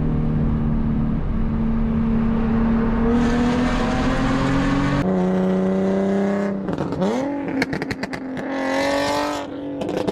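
Nissan 370Z's 3.7-litre V6 through a full Tomei exhaust, pulling hard with the pitch climbing steadily for about five seconds. It then changes abruptly; the revs dip and climb again with a quick run of crackles and pops in the exhaust, and climb once more near the end.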